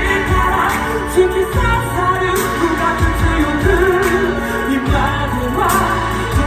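Japanese pop song playing, a sung melody over a steady bass line and drums.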